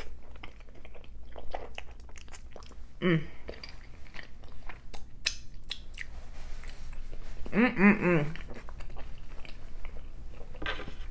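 A person chewing a mouthful of consommé-dipped birria taco close to the microphone, with many small wet clicks and smacks from the mouth. Two short voiced sounds from the eater come about three seconds in and around eight seconds.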